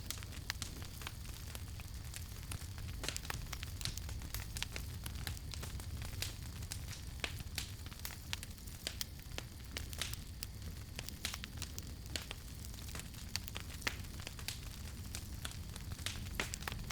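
Wood campfire crackling: irregular sharp pops and snaps, many a second, over a steady low rumble of the burning fire.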